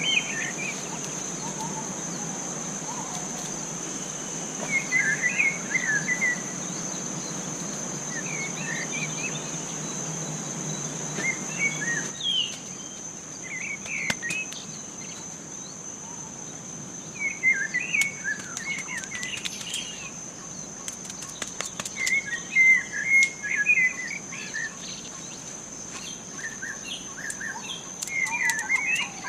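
Forest ambience: birds calling in short chirping phrases every few seconds over a steady high-pitched insect drone. A low background rush stops abruptly about twelve seconds in, and a few faint clicks come late on.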